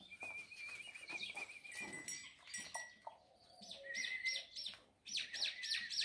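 Small birds calling: first a wavering high trill, then from about three and a half seconds in a run of short whistled notes, each sweeping downward, about three a second.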